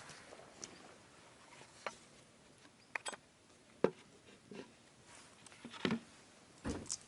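Scattered light knocks and clicks of things being handled, about half a dozen spaced a second or so apart, with a fuller thump near the end.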